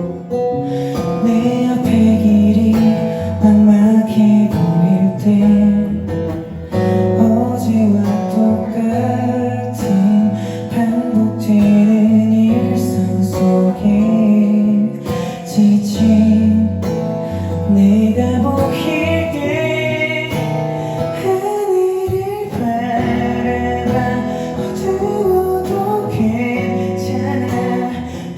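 Live acoustic guitar played through a song in rhythmic chords, with a singing voice coming in at moments, notably around the middle and near the end.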